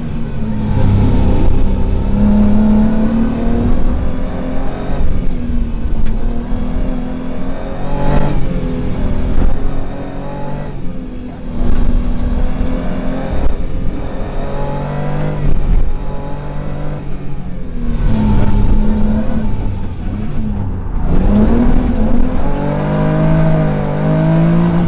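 Rally car engine heard from inside the cabin, accelerating hard and revving up through the gears, its pitch climbing and dropping at each shift, with several brief lifts off the throttle.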